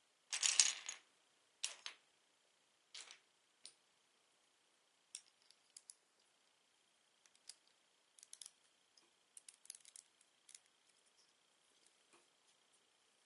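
Small plastic Lego pieces clattering together for about a second, followed by scattered light clicks and taps as pieces are handled.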